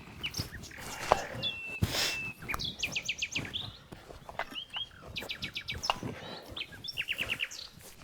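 Songbirds singing outdoors, with three short trills of quick repeated chirps. A couple of sharp knocks about one and two seconds in.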